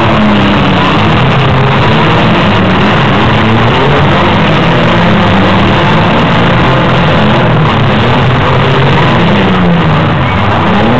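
Engines of several compact demolition-derby cars revving and running hard at once, their pitch rising and falling unevenly, loud and continuous.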